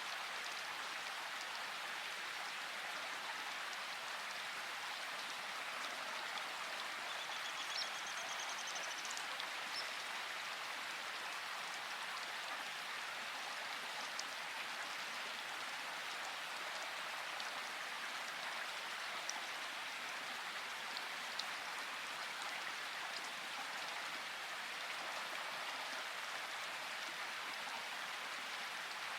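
Steady rain falling, an even hiss with a few faint drop ticks; a faint high trill sounds about seven seconds in.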